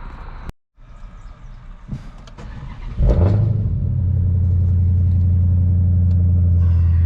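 Car engine starting with a short burst about three seconds in, then running on with a steady low hum, heard from inside the vehicle.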